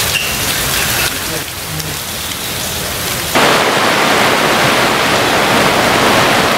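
Heavy rain pouring down in a steady hiss. About three seconds in it abruptly gets louder.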